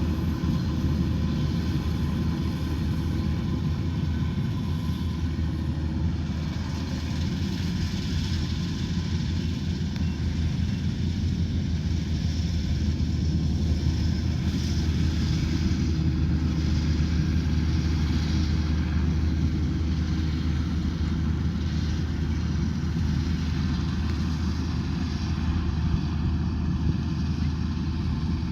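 Rice combine harvester running steadily at working power, a constant low engine drone with machinery noise above it.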